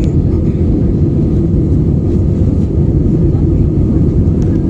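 Rough sea and wind heard from aboard a ship: a loud, steady low rumble with no breaks or distinct strikes.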